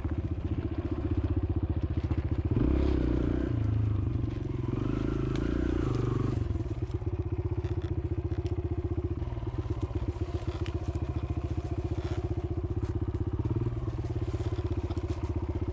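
Kawasaki KLX140L pit bike's single-cylinder four-stroke engine running as the bike is ridden, getting louder on the throttle about two and a half seconds in and easing back around six seconds, then running steadily. Scattered light clicks are heard in the second half.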